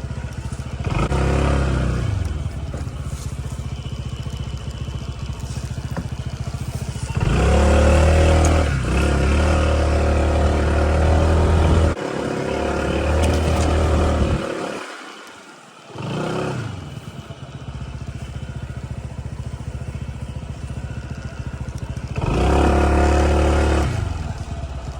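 Small rental motorbike engine labouring up a steep dirt trail, rising in several surges of revs as the throttle is opened, with a brief near drop-out of the engine note midway before it picks up again.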